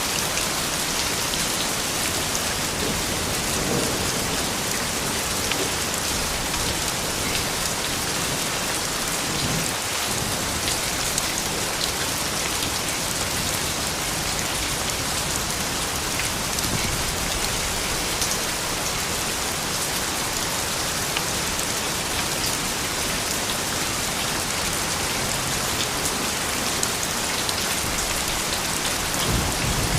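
Soft, steady rain falling: a continuous hiss with scattered ticks of individual drops.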